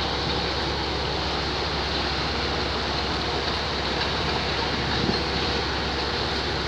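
Steady engine drone with a low, unchanging hum under a constant wash of noise.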